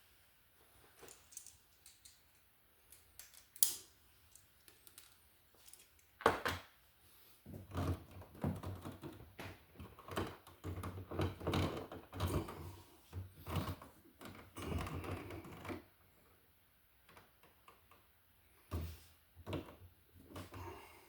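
Irregular clicks, taps and clatter of hands working electrical wires and a wall receptacle into a box. A couple of sharp single clicks come first, then a busy run of clattering that lasts several seconds, and a few more clicks near the end.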